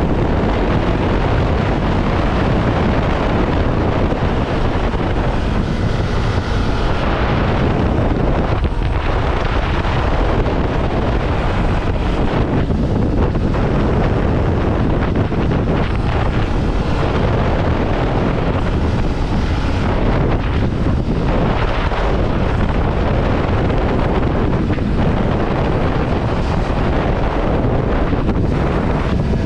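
Ducati Scrambler Sixty2's air-cooled 399 cc L-twin engine running at steady road speed under heavy wind buffeting on the microphone, with no clear changes in revs.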